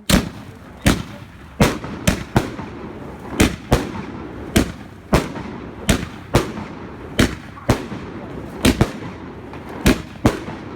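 Fireworks going off in a rapid, irregular string of sharp bangs, one or two a second, starting suddenly, with a crackling hiss between the bangs.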